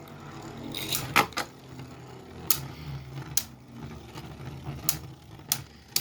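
Two Beyblades, one of them 3D-printed, spinning and clashing in a stadium: sharp, irregular clicks of the tops striking each other over a low steady whir.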